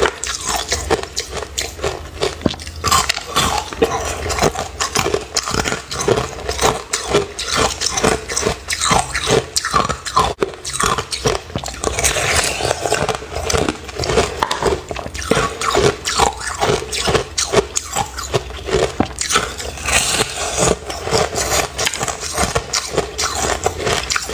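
A person chewing crunchy ice close to the microphone: rapid, dense crunching and crackling bites with no pauses.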